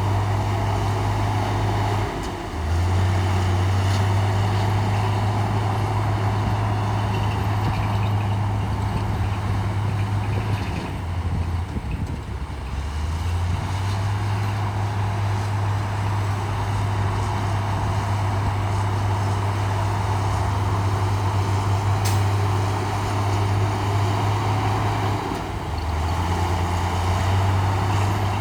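Heavy diesel engine of earthmoving equipment running steadily under load, with a deep drone that eases off and picks up again a few times.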